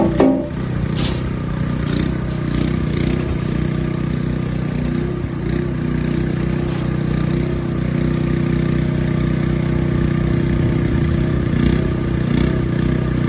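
Tracked skid steer loader's engine running steadily, with a few short clanks near the start and again near the end.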